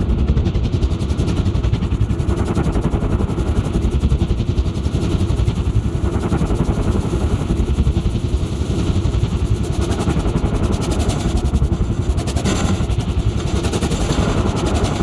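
Very large steel spring picked up by a contact mic inside its wooden-beam mount, giving a loud, dense low rumble that flickers rapidly. Brighter hissing texture comes in about twelve seconds in.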